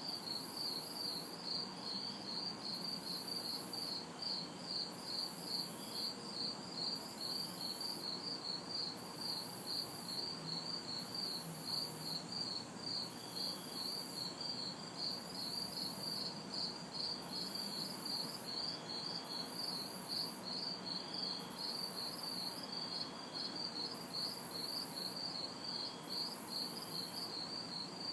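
Night chorus of crickets and cicadas: crickets chirp steadily at about three chirps a second, over a higher insect buzz that pulses on and off about once a second. Faint distant city traffic hums underneath.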